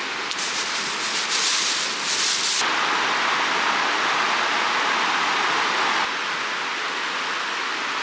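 Steady rushing of a clear creek. In the first two and a half seconds a fine crackling hiss lies over it; then a louder hiss runs for about three and a half seconds and stops abruptly.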